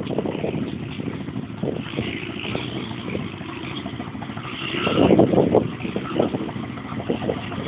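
A 300cc quad bike's engine running as it is ridden, growing louder about five seconds in.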